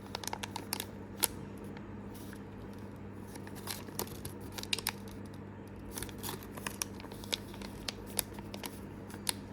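Small plastic blind-bag packets being handled and torn open: scattered crinkles, rustles and sharp little clicks, over a faint steady low hum.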